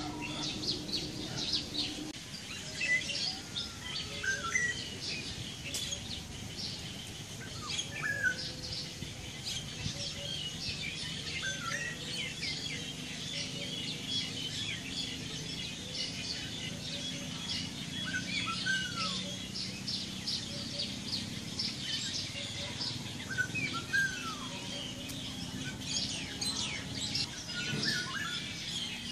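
Songbirds chirping and twittering continuously in the trees. Short clear whistled notes that slide in pitch recur every few seconds over the chatter.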